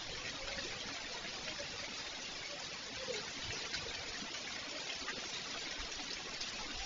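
Rain falling steadily: an even hiss with a few faint ticks.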